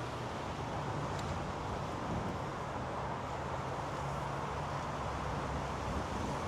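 Golf cart running along with a steady low hum, under constant wind rushing over the microphone.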